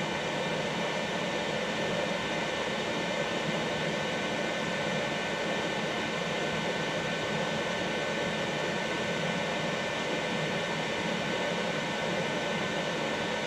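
Steady whir of the Qidi X-Max 3D printer's cooling fans running while the printer heats up before printing, with a few faint constant whining tones over the noise.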